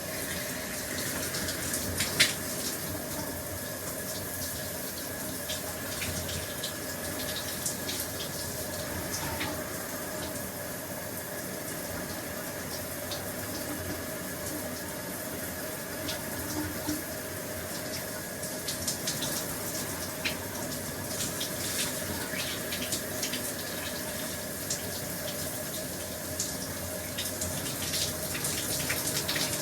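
A shower running steadily, its spray making an even hiss with a faint steady hum underneath. Scattered sharp ticks of water spatter through it, the loudest about two seconds in.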